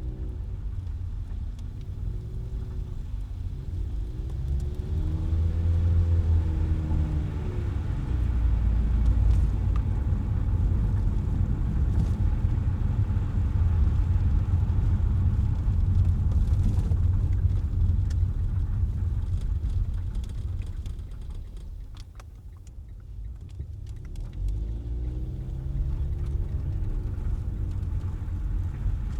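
Car driving in city traffic: a steady low rumble of engine and road noise, with the engine note rising and falling twice as the car speeds up and slows, and a brief quieter stretch a little over two-thirds of the way in.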